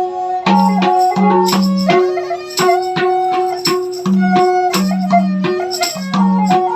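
Nepali folk music: a madal hand drum plays a steady rhythm of sharp strokes mixed with low bass strokes, under a held melody line from a sarangi.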